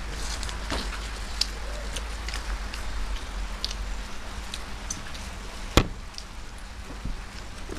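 People eating a Maggi noodle roll: scattered small crackles and clicks of chewing and handling the food, with one sharp click about six seconds in.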